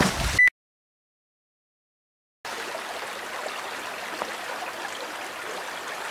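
A brief clatter ends abruptly about half a second in, followed by a couple of seconds of dead silence. From about two and a half seconds in, a steady rush of a river flowing over rocks.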